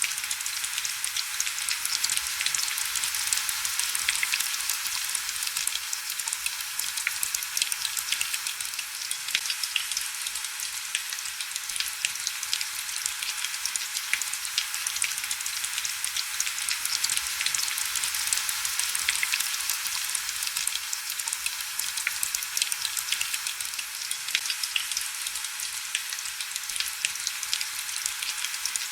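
Heavy rain falling steadily: a dense, even hiss of countless small drop ticks, thin and without any deep rumble.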